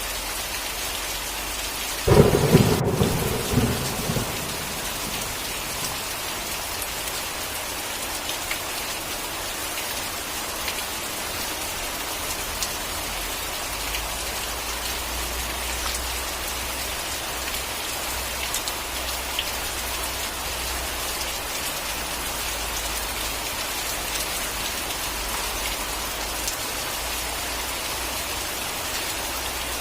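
Steady heavy rain falling, with a single sharp thunderclap about two seconds in that rumbles and dies away over the next two seconds.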